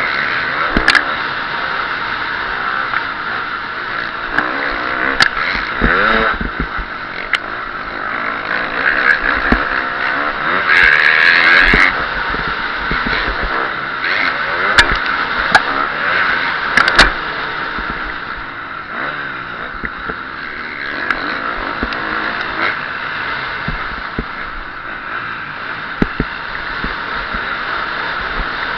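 KTM SX-F 350 four-stroke single-cylinder motocross engine revving up and down under hard riding, heard up close, loudest for about a second around the middle. Several sharp knocks cut through it.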